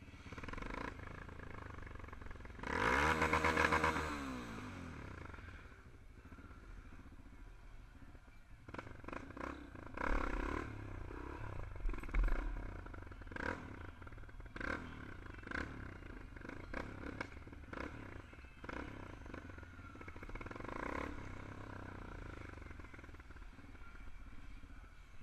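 Motorcycle engines: one passes close about three seconds in, loud, its pitch falling as it goes by. Later come a series of short engine bursts and clatter.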